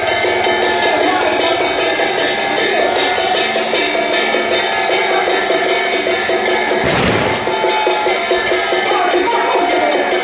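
Taiwanese temple-procession troupe music: drums and cymbals keep a steady beat under a sustained melody line, with one loud crash about seven seconds in.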